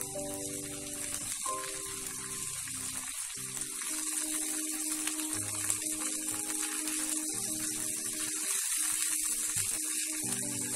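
Chopped onion and diced bell pepper sizzling in hot oil in a frying pan as they are stirred with a silicone spatula, a steady hiss, over soft background music with long held notes.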